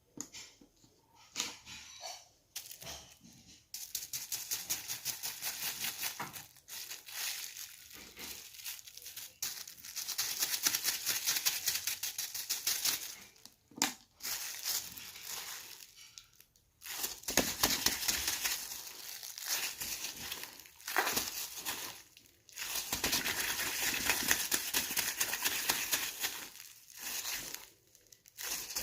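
Plastic bag with water in it being squeezed and crinkled by hand: stretches of dense crackling that stop and start, with short pauses between handlings.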